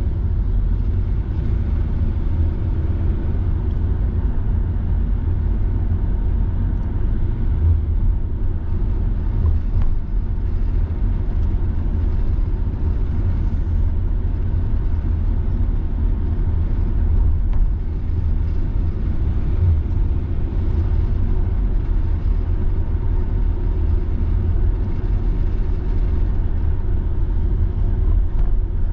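Car driving at steady speed: an even, low road and engine rumble with no distinct events.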